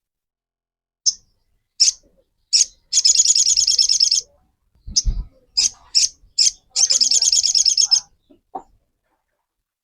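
A sogok ontong calling. It gives short, high chirps, then a rapid rattling trill about a second long. It repeats this twice, with the second trill near the end.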